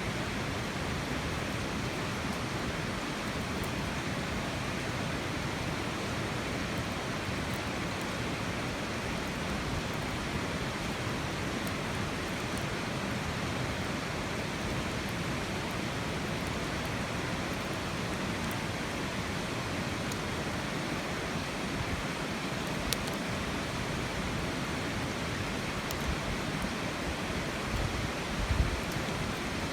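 A steady rushing hiss with a few sharp crackles now and then, as of a campfire burning, and a low thump near the end.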